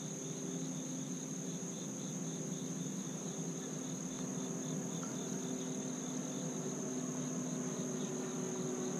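Crickets trilling in a steady outdoor insect chorus: one continuous high-pitched tone with a fainter pulsing call beneath it. A faint low hum runs underneath.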